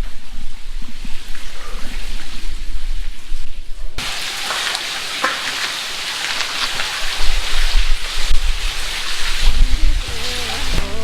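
A thin desert waterfall splashing onto rock, a steady hiss that starts suddenly about four seconds in; before that there is only a low rumble. Music comes in near the end.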